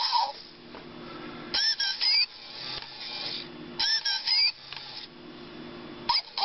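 Polly the Techno Parrot robot toy's small motor whirring as it moves, while its speaker plays a whistled chirp sequence of rising and falling notes twice, about two seconds apart.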